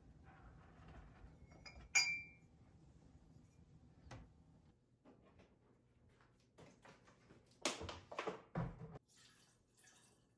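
Dishes and glassware being handled: a sharp, ringing clink about two seconds in, a knock near the middle, and a short run of louder clattering near the end.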